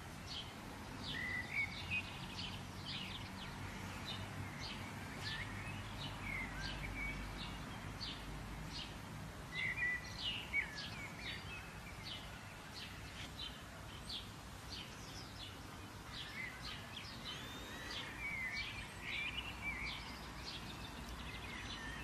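Several birds chirping and calling in quick short notes, some sliding in pitch, over a steady low background noise.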